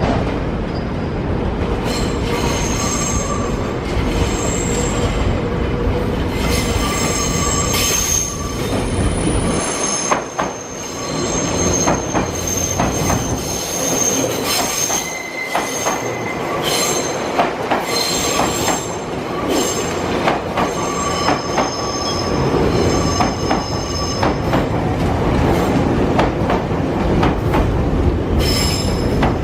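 Nankai electric train moving through the station, its wheels squealing in high, shrill tones that come and go, with knocks and clicks from the wheels on the track.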